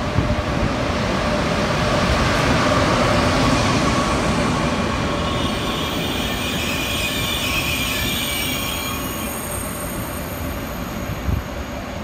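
TGV Duplex double-deck high-speed train rolling in slowly as it arrives at the station, its wheels rumbling on the rails. The rumble is loudest a few seconds in and then eases off slightly, while thin, steady, high squealing tones join from about halfway.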